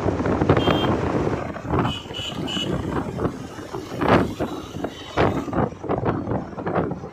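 Wind buffeting the microphone of a moving motorcycle on the road, with traffic noise underneath. Short high horn beeps sound about a second in and again two or three times between two and three seconds in.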